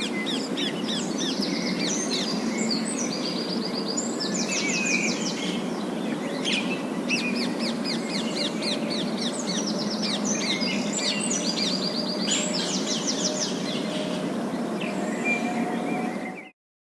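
A flock of parakeets chattering: dense runs of quick high chirps and fast trills over a steady low background noise, thinning out after about 13 seconds, with a brief break to silence just before the end.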